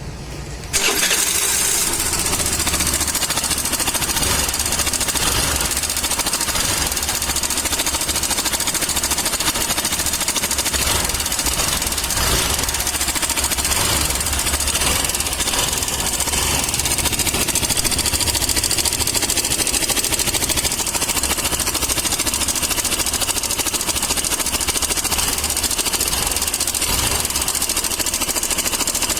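Suzuki Access 125 BS6 scooter's single-cylinder four-stroke engine started about a second in and left running steadily, with a rapid mechanical clatter. The clatter is the engine noise the mechanic traces to a failed automatic cam chain tensioner letting the timing chain slap.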